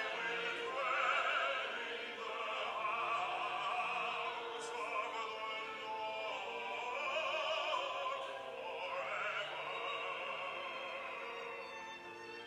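Classical sung music in an operatic style, a voice with a wavering vibrato over a quiet accompaniment, played as offertory music at Mass.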